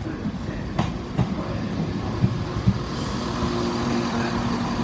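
Class 171 Turbostar diesel multiple unit running into the platform, its wheels knocking over rail joints a few times, then from about three seconds in a steady engine hum with a hiss.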